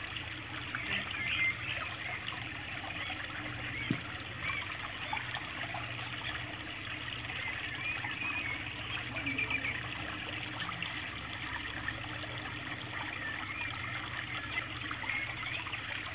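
A thin stream of water trickling and splashing from a small plastic tube onto wet sand, fed by a toy tractor's homemade water tank. A low steady hum runs underneath.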